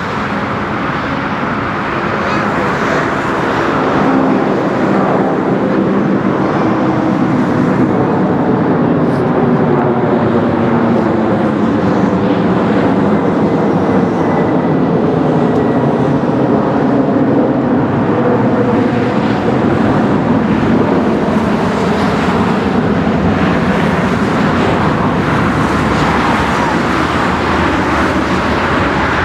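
McDonnell Douglas MD-11F freighter's three jet engines running loudly and steadily as the aircraft passes. The noise swells a few seconds in, with tones that slowly waver and drift.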